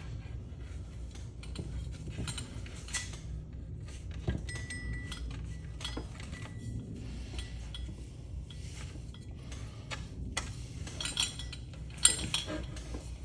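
Metal parts of a ceiling fan motor clinking and rattling as they are handled and turned over during disassembly, irregular light clinks throughout with a louder clatter near the end.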